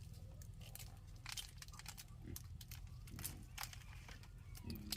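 Scattered small cracks, crackles and crinkles of hands at work, cracking and peeling fruit, over a steady low hum, with a few faint brief murmurs.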